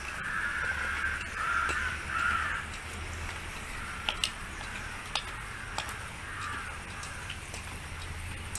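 Crows cawing: a run of three harsh caws in the first few seconds, then a few more later on, with several sharp clicks in between.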